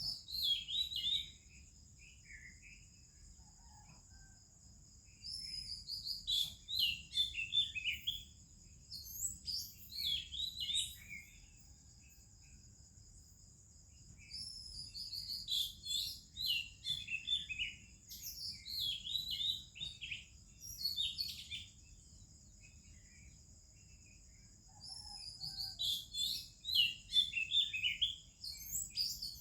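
Oriental magpie-robin singing: varied whistled phrases in four bursts of a few seconds, with pauses between, over a steady high-pitched whine.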